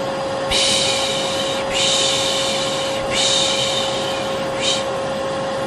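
Vacuum cleaner motor running with a steady hum, overlaid by a person's repeated long 'shhh' shushing sounds: three long shushes and a short one. Together they form a soothing sleep sound for a baby.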